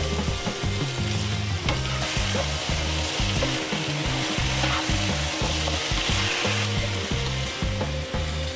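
Sauce-coated paneer cubes and bell peppers sizzling steadily in a nonstick wok while a spatula stirs and turns them.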